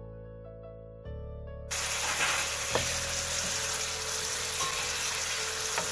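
Background music for a little under two seconds, then a sudden cut to chicken pieces sizzling loudly in sauce in a frying pan. A wooden spoon stirs them, with a few light knocks against the pan.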